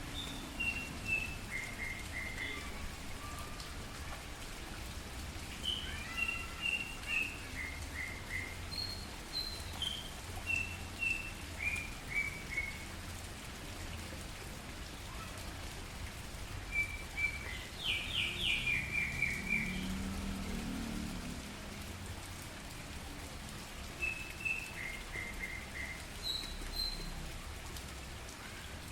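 Steady rain falling, with a small bird calling over it: repeated series of short chirps that step down in pitch, and a quick run of rapid notes about eighteen seconds in.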